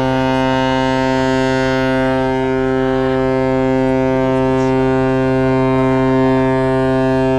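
A ship's horn sounding one long, steady, low blast of about seven seconds, cutting off sharply at the end.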